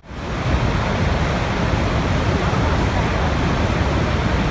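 Steady rushing water, a continuous even wash of noise. Right at the start it fades down almost to silence and swells back within about half a second.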